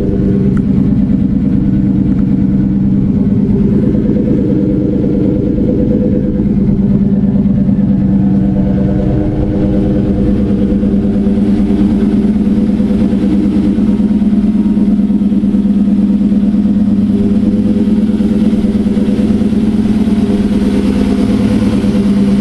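Supercharged 4.6 L V8 of a 2004 Mustang Cobra, with a hand-ported Eaton blower, idling steadily after a cold start, its exhaust running through Flowmaster Super 40 mufflers.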